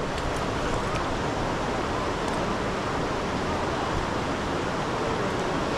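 Steady rush of river water flowing over rocks, an even hiss with no change in level.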